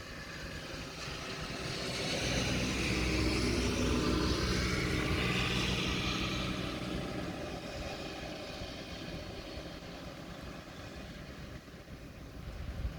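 A vehicle passing on a wet road: a rumble and tyre hiss that swell to their loudest about four seconds in, then fade away.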